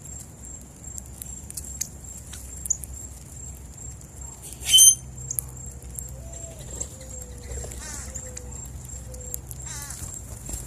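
Wild birds calling at a seed feeder: one loud, sharp call about halfway through, a few short chirps, and a low, soft cooing in the second half, over a steady high-pitched background tone.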